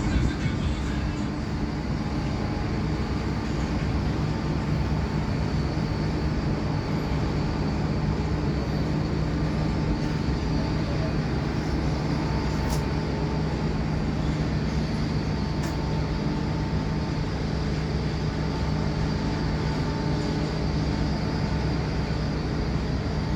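Steady mechanical drone with a constant low hum and a few fainter steady tones above it, unchanging throughout.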